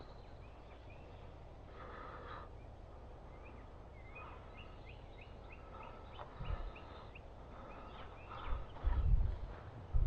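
Scattered bird calls over a faint outdoor background, including a quick run of small high chirps about halfway through. A few low thumps on the microphone come near the end and are the loudest sounds.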